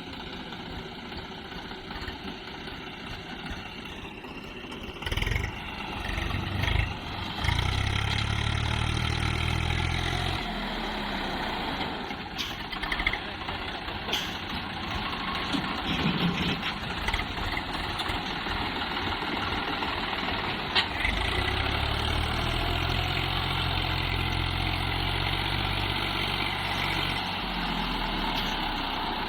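Tractor engine running steadily, getting louder about five seconds in and again about three-quarters of the way through.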